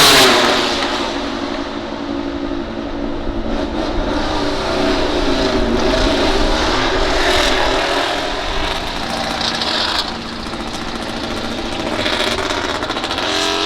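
MotoGP racing motorcycles running at high revs on track. The engine note is loudest at the start and falls in pitch as a bike passes by, then the engines keep running, with another rising in pitch near the end.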